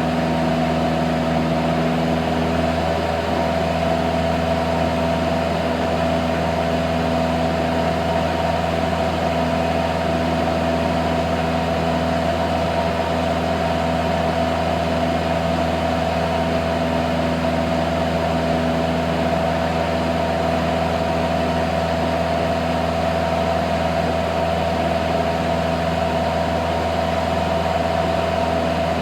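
Cessna 172's piston engine and propeller running at a steady, unchanging speed, a constant drone.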